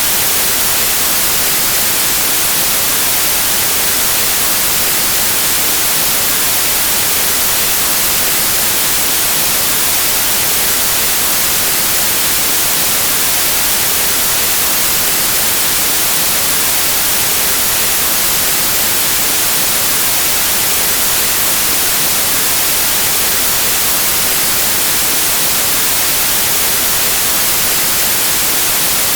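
Steady, unchanging white noise: an even static hiss, strongest in the high frequencies, with no breaks or changes.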